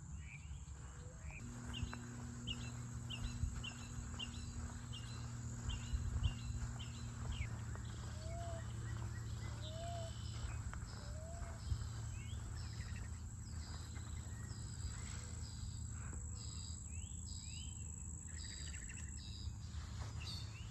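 Wild birds singing and calling, including a quick series of short high chirps repeated about twice a second, with a steady high-pitched insect buzz that stops near the end, over a low outdoor rumble.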